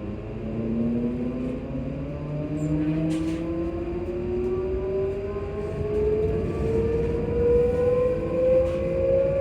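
ScotRail Class 334 electric multiple unit's traction motors whining as the train accelerates: a tone rising steadily in pitch with several higher tones rising alongside it, over the low rumble of the train running. A brief click about three seconds in.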